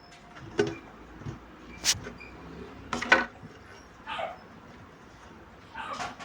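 Slime being handled and squeezed by hand, giving a few sharp wet clicks and pops spread through the stretch.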